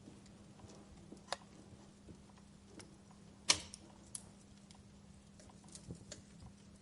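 Wood fire crackling in a fireplace: irregular sharp pops from burning logs over a faint steady hiss, with the loudest pop about halfway through. A faint steady low hum runs underneath.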